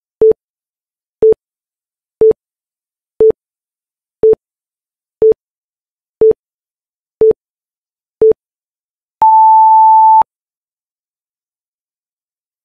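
Electronic interval-timer countdown: nine short beeps, one a second, then a longer, higher beep marking the end of the 10-second rest and the start of a 20-second press-up round.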